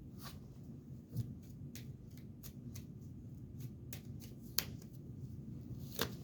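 Tarot cards being handled: irregular light clicks and flicks of card stock, with sharper snaps about a second in, past the middle, and near the end.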